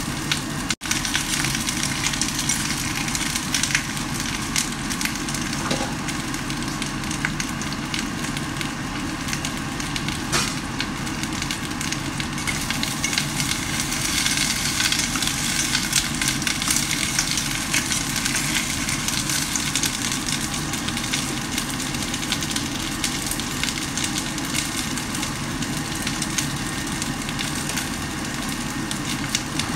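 Fish pieces sizzling and crackling steadily as they fry in a pot on a gas hob, the water in the pan cooking off.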